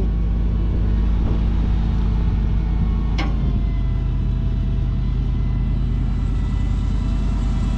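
Rollback truck's 366 V8 running steadily while its hydraulic bed slides back, a steady low rumble with a thin whine over it. A single sharp click about three seconds in.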